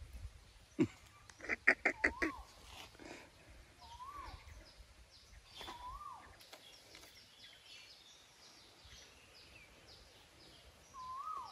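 Birds calling: a quick run of about six loud notes near two seconds in, and a single rising-then-falling whistled note repeated every two seconds or so. Fainter high, falling chirps come in the middle.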